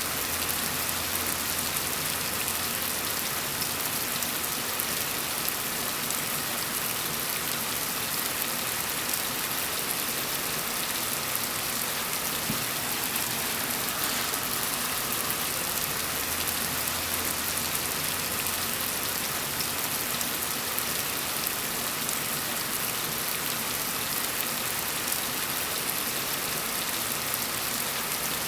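Steady rain falling and pattering on surfaces, an even dense hiss without a break. A faint low hum comes in twice, near the start and again about halfway.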